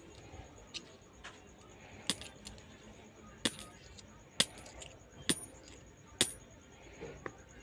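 Indonesian 500-rupiah 'melati' coins dropping and clinking one at a time: about eight sharp metallic clinks at irregular intervals, several with a brief high ring.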